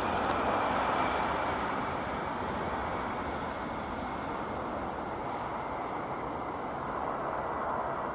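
Airliner jet engines running, a steady noise with a faint high whine held through it.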